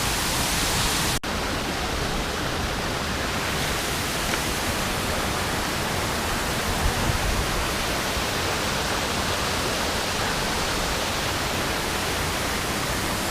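Steady rushing of running water, like a nearby river or waterfall. It drops out for an instant about a second in, then carries on unchanged.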